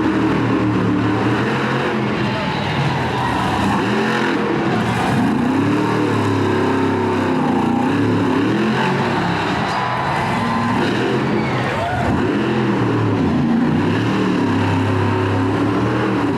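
Monster truck engine revving hard and easing off again and again, its pitch climbing and falling in repeated sweeps as the truck is driven.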